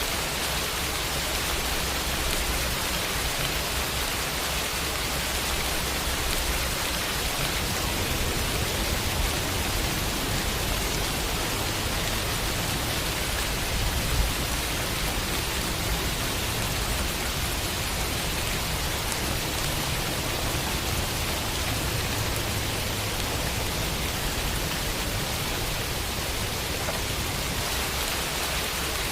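Steady rain falling on a window, an even hiss without pauses, with one slightly louder drop or tap about halfway through.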